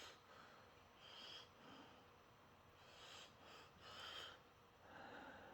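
Near silence, with faint breaths close to the microphone about once a second.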